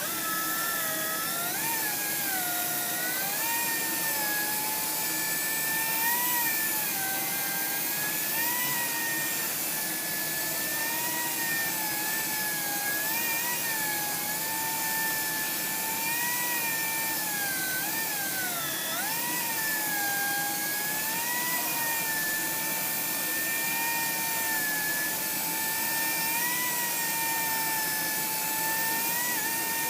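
Electric car buffer starts up and runs steadily while buffing a cultured marble top, its motor whine wavering and dipping in pitch as it is pressed against the surface, with the deepest dip about two-thirds of the way in.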